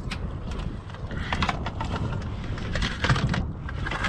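Wind buffeting the microphone on a kayak at sea, with a scattered string of light knocks and clatters.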